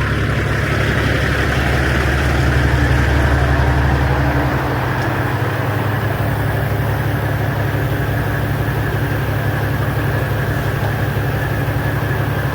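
Semi truck's diesel engine running steadily with a low drone; the deepest part of the drone drops away about four and a half seconds in.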